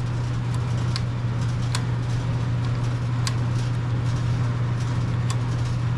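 A steady low hum with a few light, separate clicks, about four in all, as the small-engine throttle and choke linkage is handled.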